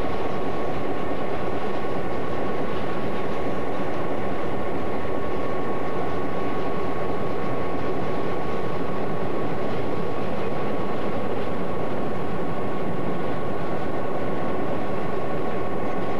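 Freight cars rolling past at a steady speed: a continuous rumble of steel wheels on rail, with a steady high thin tone held over it.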